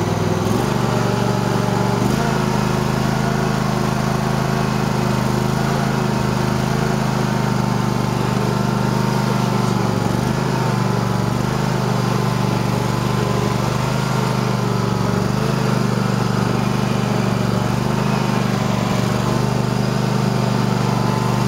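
Cub Cadet garden tractor's twin-cylinder engine running steadily, with a slight change in pitch about half a second in. It runs smoothly, freshly fitted with two new spark coils, two new spark plugs and a new air filter.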